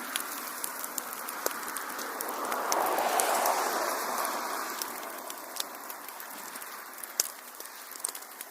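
Wood fire in a fireplace crackling: scattered sharp pops and snaps over a rushing hiss of flame that swells about three seconds in and then dies down.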